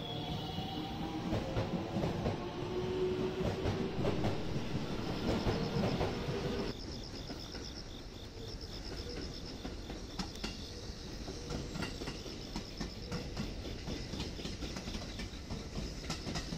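Electric commuter train pulling out of a platform, its motors whining upward in pitch as it gathers speed. About seven seconds in, the sound cuts abruptly to a quieter train rolling over depot tracks, its wheels clicking over rail joints and points.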